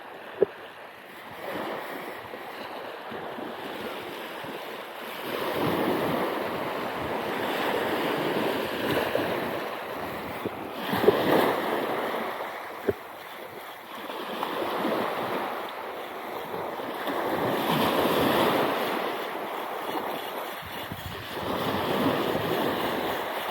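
Sea waves breaking and washing up the beach in surges every few seconds, with wind on the microphone. Two sharp clicks stand out, one about half a second in and one about thirteen seconds in.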